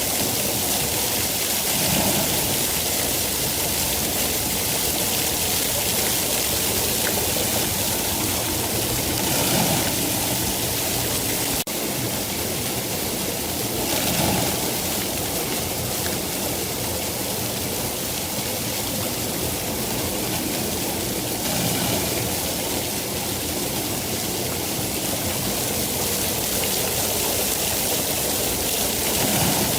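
Steady rain falling, an even dense hiss with a few brief swells and a short dip about twelve seconds in.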